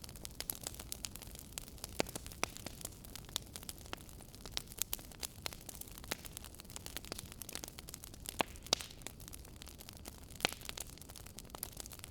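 Wood fire crackling in a fireplace: irregular sharp pops and snaps over a soft steady hiss of burning, a few pops louder than the rest.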